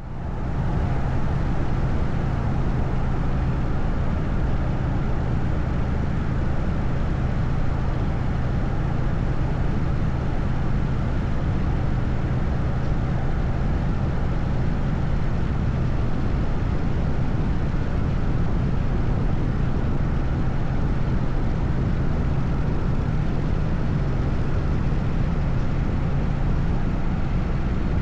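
Harley-Davidson FXSTS Springer Softail's air-cooled Evolution V-twin running at a steady cruise, its low exhaust note holding one pitch over a constant rush of wind and road noise. It fades in at the very start.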